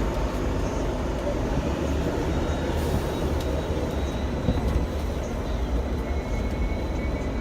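Hong Kong double-decker tram running along its tracks, a steady low rumble of wheels on rail heard from on board, with a faint high whine coming in near the end.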